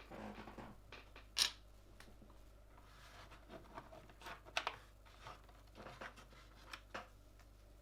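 Irregular small plastic clicks and light scraping from mechanical keyboard parts being handled and pressed into place, with one sharp louder snap about one and a half seconds in and a quick run of clicks near the middle.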